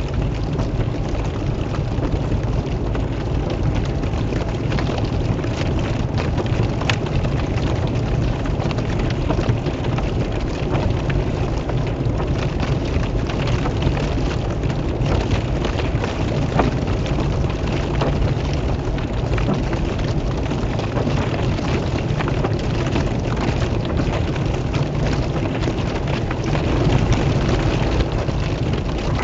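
Pouring rain: a steady hiss full of small drop hits, over a steady low rumble, with one sharper tick about seven seconds in.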